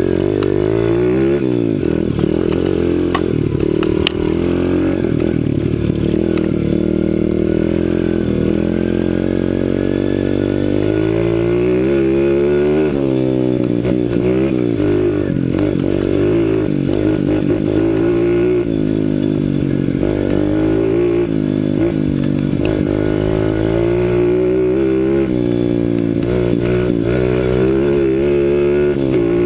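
CRZ 125 Pro pit bike's engine revving up and down over and over as the rider accelerates, lets off and shifts, close to an onboard camera.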